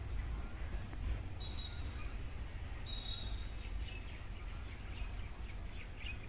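Two short, high bird chirps, about a second and a half and three seconds in, with fainter chirps later, over a steady low rumble.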